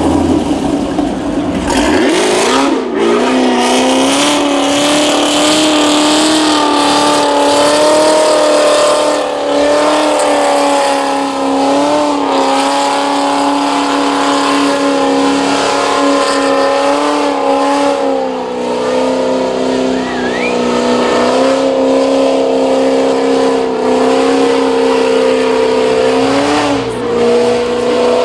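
Car engine revs up about two seconds in and is then held at high, nearly steady revs for over twenty seconds, with a brief dip near the end, over a hiss of spinning tyres, as in a long burnout.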